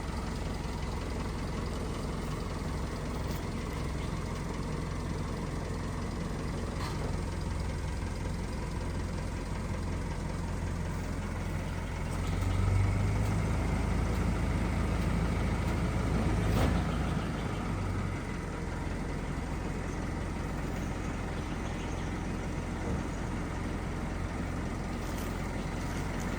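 Low, steady engine rumble of a heavy vehicle idling, growing louder for about five seconds midway before settling back.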